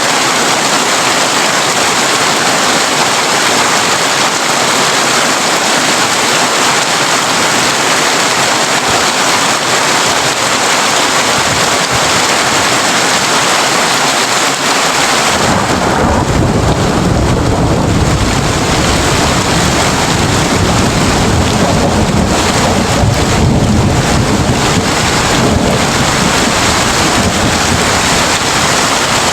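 Heavy rain falling on a tin roof, a steady dense hiss. About halfway through, a long low rumble of thunder comes in and keeps rolling under the rain.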